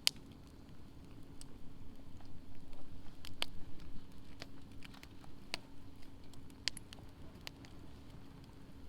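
Wood fire in a fire pit crackling, with scattered sharp pops over a low rumble of burning, and a faint steady hum underneath.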